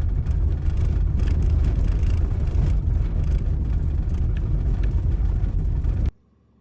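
Road and engine rumble heard inside a moving SUV, a steady deep drone with scattered light ticks, cutting off suddenly about six seconds in.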